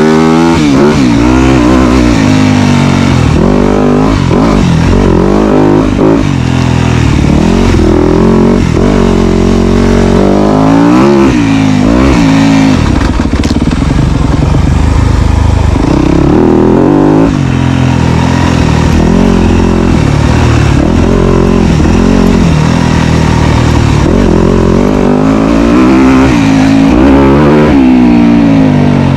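Dirt bike engine running loud, revving up and dropping off again and again as the throttle is opened and closed.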